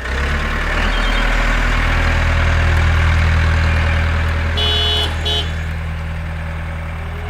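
Engine running steadily with a low, even hum. Two short, flat-pitched toots sound over it about halfway through.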